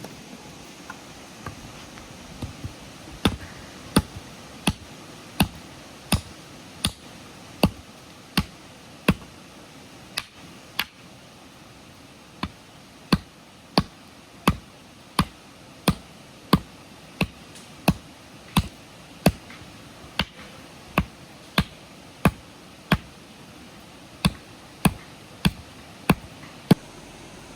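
A long run of sharp knocks at a steady pace, about three every two seconds, beginning a few seconds in, with a short break near the middle and a few fainter taps at the start.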